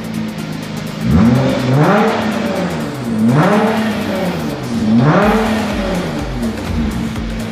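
Nissan GT-R R35's twin-turbo V6 revved about four times through a decatted downpipe and performance exhaust system, the pitch climbing and dropping back each time.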